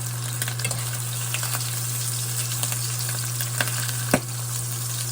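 Food frying and sizzling in a pan, a steady hiss with light scattered clicks of a utensil against the pan, the sharpest a little after four seconds. A steady low hum runs underneath.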